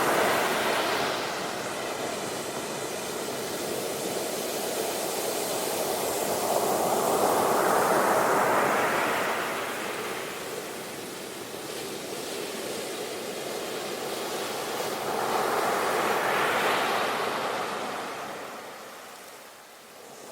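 Ocean waves breaking and washing on a shore, the surf swelling and falling away in slow surges, with the loudest swells about eight seconds in and again near the end.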